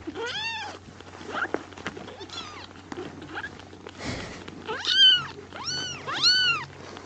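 Hungry kittens mewing for milk: high, thin mews that rise and fall in pitch. There is one about half a second in and a couple of fainter ones, then three loud mews in quick succession near the end.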